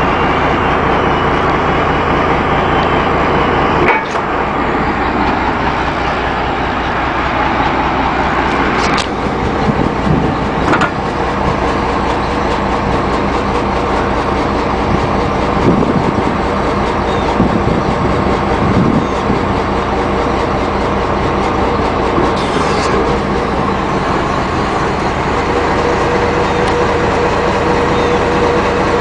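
Ford F800 truck's six-cylinder diesel running steadily while the hydraulic outrigger supports are pulled in, with a few sharp clanks and brief rising whines along the way.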